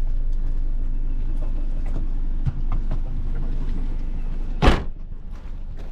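Car engine running steadily with a few light clicks, then a car door shut with one loud thud near the end.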